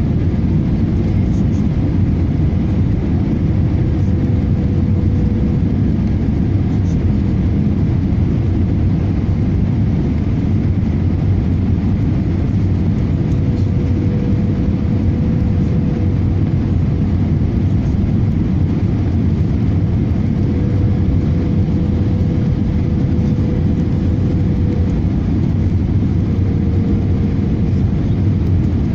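Steady, loud rumble of an Airbus A318 airliner in flight, heard from inside the cabin, with a faint hum that fades in and out every few seconds.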